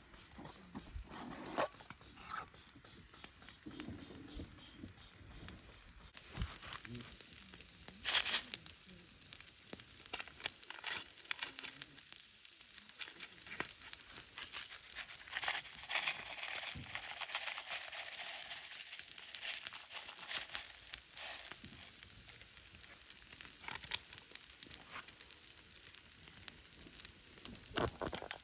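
Wood fire burning in a portable fire pit, crackling with many irregular sharp snaps over a steady sizzling hiss; one louder pop about 8 seconds in.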